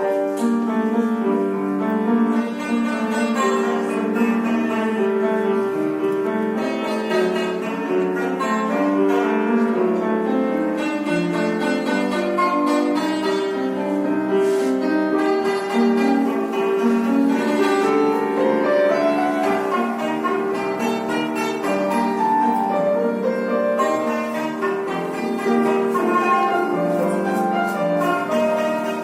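Azerbaijani tar playing a melody with piano accompaniment, notes following one another without a break.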